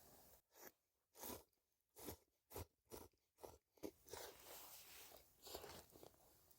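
A run of short, irregular crunches, about eight in three seconds, followed by denser, softer crunching.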